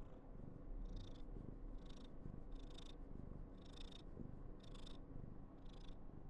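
Somali cat purring: a steady low rumble, with a short breathy sound about once a second.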